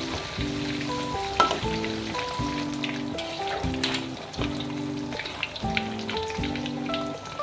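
Egg tofu deep-frying in oil in a wok: a steady sizzle with scattered small pops, and one sharp knock about a second and a half in. Background music with a repeating chord pattern plays over it.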